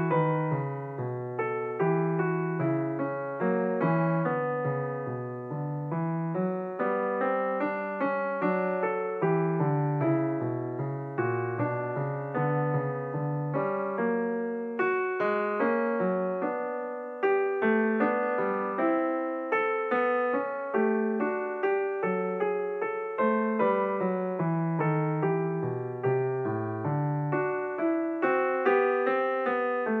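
Piano music: a steady stream of struck notes and chords over a moving bass line.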